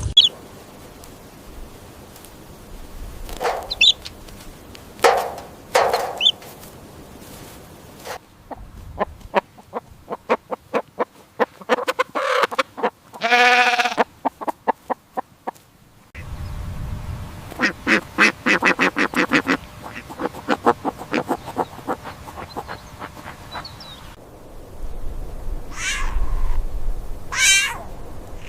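Farm fowl calling: a few single calls, then two rapid runs of harsh, clipped quack-like calls, one longer drawn-out call in the middle and two shrill calls near the end.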